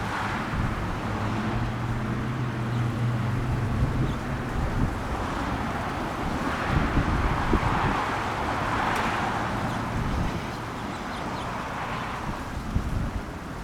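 Wind buffeting the microphone outdoors, with a low steady hum under it for about the first five seconds that then fades out.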